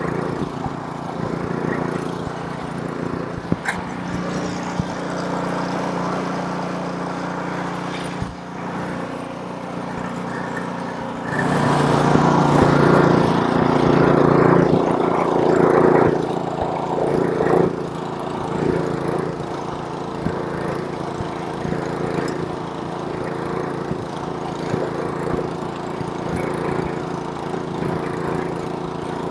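Snowblower's small gasoline engine running steadily. It grows louder and fuller for about four seconds, starting a little over a third of the way in.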